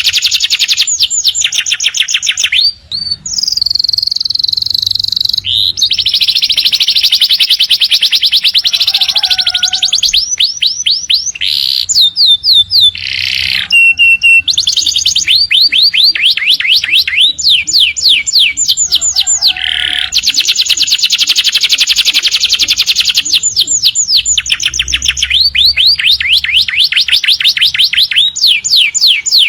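Domestic canaries singing long, unbroken song: fast trills of rapidly repeated notes, a few longer held notes, and only brief breaks.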